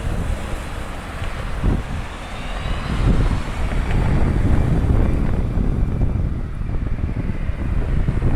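Wind buffeting the microphone over the rumble of a jet airliner's engines, with a faint gliding engine whine about halfway through.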